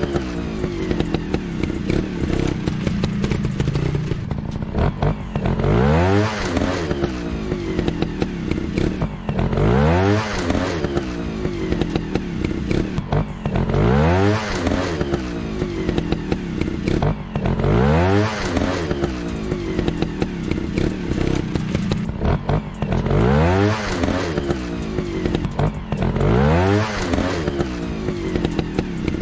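Dirt-bike engine revving in repeated sweeps, rising in pitch and dropping back in the same pattern about every four seconds, like a looped engine sound effect.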